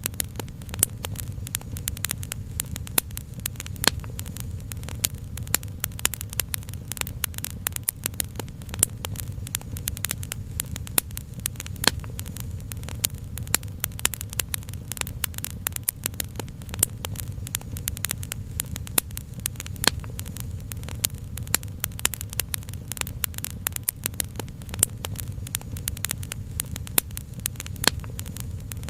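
Wood fire crackling, with frequent irregular sharp pops and snaps over a low, steady rumble.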